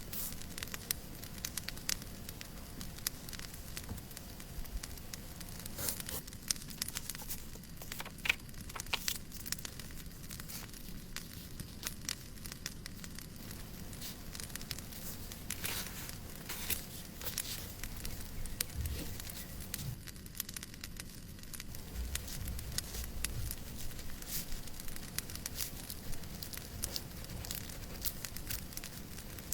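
Wood fire crackling in a fireplace: frequent irregular snaps and pops over a steady hiss, with a few soft low thuds past the middle.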